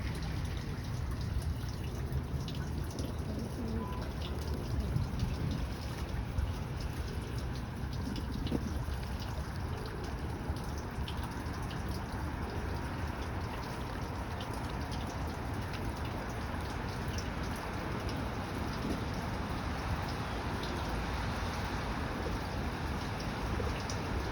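Steady rain falling, a constant wash of noise with scattered small drop ticks.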